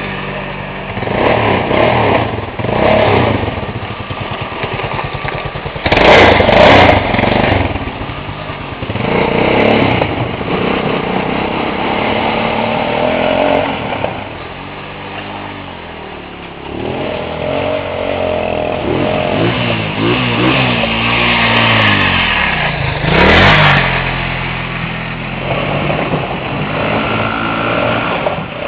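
Motorcycle engine running and revving, its pitch rising and falling again and again, with loud surges about six seconds in and again near twenty-three seconds.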